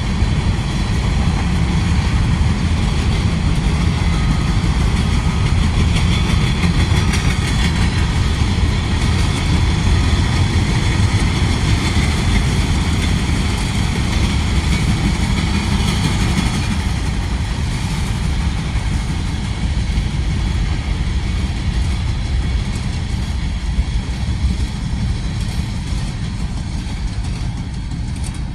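Train passing close by: a steady rumble of wheels on the rails, with faint high steady tones over it.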